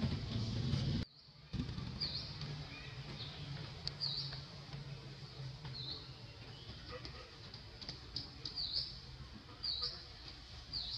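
Short high-pitched bird chirps, one every second or two, over a low steady hum; the sound drops out briefly about a second in.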